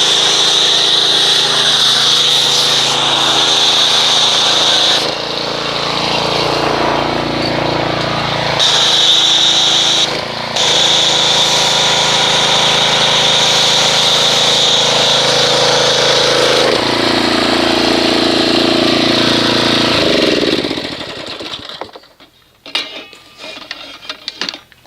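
Pressure washer running, spraying soapy foam through a foam cannon with a steady hiss over the pump's hum. The spray hiss drops out briefly a couple of times, and about twenty seconds in the motor winds down and stops.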